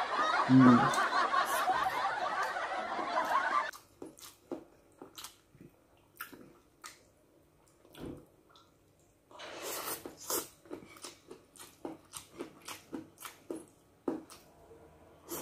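Close-up mouth sounds of a man eating pancit noodles: a long wet slurp of noodles that stops abruptly a few seconds in, then many short smacking chewing clicks, with another brief slurp about ten seconds in.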